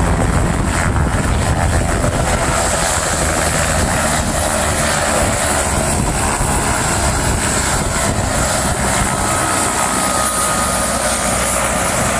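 Gas-turbine (turboshaft) helicopter running close by: the steady noise of its rotor and engine, with a high turbine whine over it.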